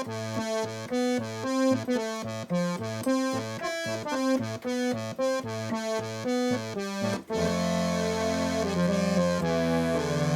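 Roland JX-3P analog polysynth with the Kiwi-3P upgrade playing a preset. Short staccato notes repeat at about three a second, and about seven seconds in they give way to held, sustained notes that change pitch.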